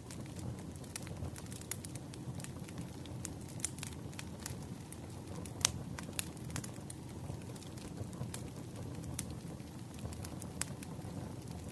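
Campfire burning: a steady low rumble of flames with irregular sharp crackles and pops of burning wood, one louder pop about six seconds in.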